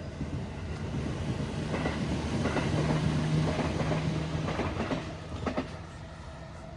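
A vehicle passes by, growing louder over about three seconds and then fading, with a steady low hum and a run of clicks and knocks as it goes by.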